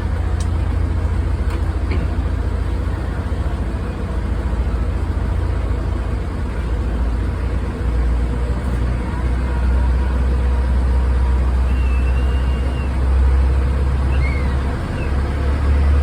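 Boat engine running steadily with a deep, low rumble, its pitch and level shifting slightly about halfway through and again near the end.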